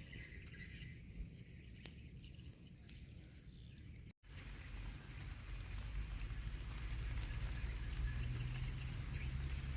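Rain falling outdoors: light scattered drips and ticks at first, then after a sudden cut a heavier, denser rain with a steady low rumble underneath.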